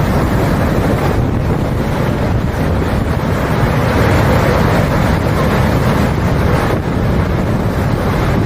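Strong wind rushing and buffeting the microphone, a loud steady roar that eases slightly about a second in and again near the end.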